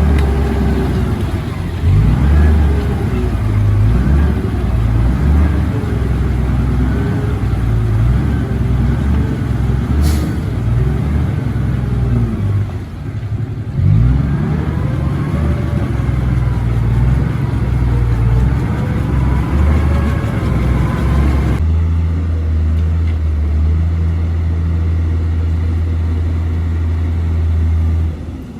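Komatsu D58P bulldozer's diesel engine working under load, its pitch rising and falling with a sharp click about a third of the way in. About three quarters of the way through, the sound switches abruptly to a steady low engine drone.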